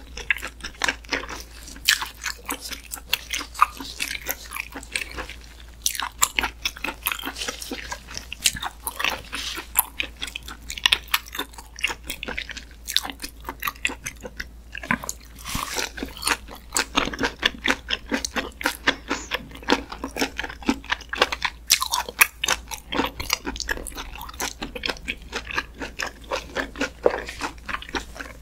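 Close-miked wet chewing and biting of raw duck meat wrapped in a pickled leaf, with crunchy bites of raw garlic, in quick irregular clicks and crackles.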